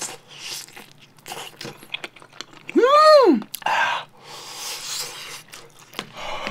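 Close-up chewing of a steamed dumpling and rice, in short bursts of mouth noise. About three seconds in, a loud short tone rises and falls in pitch, lasting about half a second.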